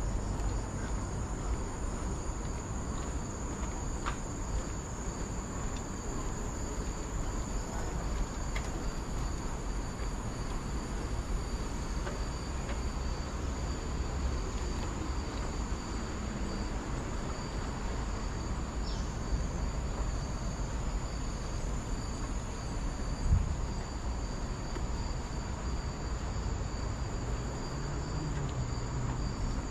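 Steady high-pitched insect chorus, holding two unbroken tones, over a constant low rumble, with one short low thump about two-thirds of the way through.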